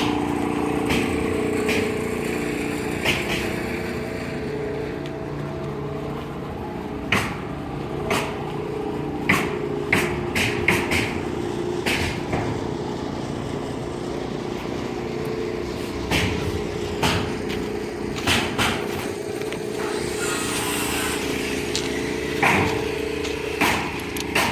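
A steady engine hum with irregular sharp knocks and clicks, the background of a building site at work.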